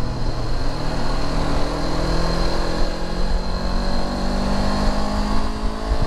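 Honda CB500X's parallel-twin engine pulling hard in one gear as the motorcycle accelerates from about 20 to 40 mph, its pitch rising steadily, over a low wind rumble.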